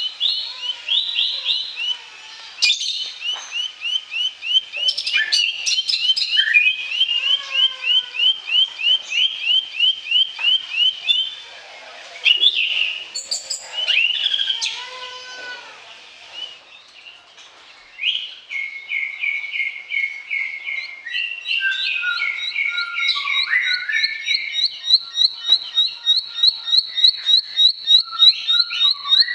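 Bar-winged prinia (ciblek) singing: long fast trains of repeated high chips, several a second, with the phrase changing several times and two short pauses.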